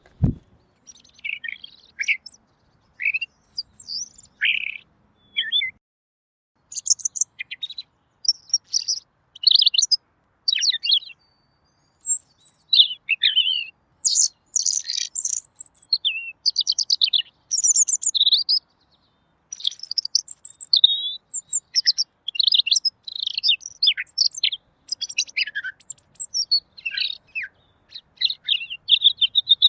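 Pekin robin (red-billed leiothrix) singing: a long run of quick, varied, clear warbled phrases with short pauses between them.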